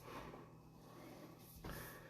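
Near silence: a faint steady low hum, with a soft bump or rustle about one and a half seconds in.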